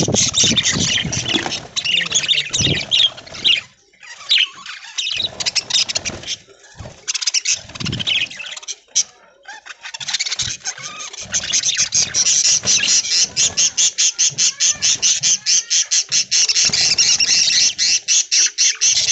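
A flock of budgerigars chattering and chirping. About halfway through, a fast, even run of high repeated chirps starts, about five a second, and keeps going.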